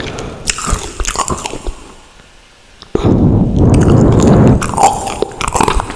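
Close-miked chewing and wet mouth sounds of someone eating: a few sharp clicks at first, a short lull about two seconds in, then loud continuous chewing from about three seconds.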